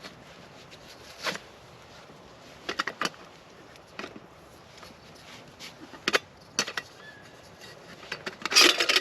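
Scattered metal clinks and knocks of a small camp coffee kettle and its parts being handled, with a louder burst of rattling near the end.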